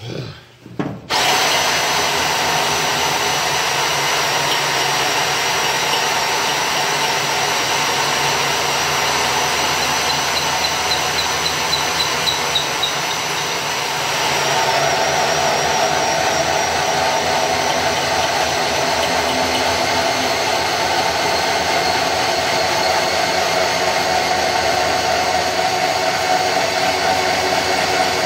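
Power drill driving a dull hole saw into truck-body sheet metal, running steadily from about a second in and getting a little louder about halfway through. The saw cuts slowly because it is dull and the bit wobbles.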